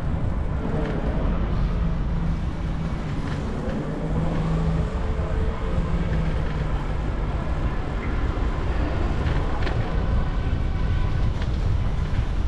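Wind buffeting the microphone of a moving bicycle, with a steady low drone of vehicle traffic underneath.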